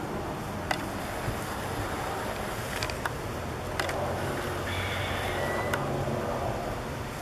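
A vehicle engine running with a steady low rumble, with a handful of sharp, scattered ticks and clicks over it.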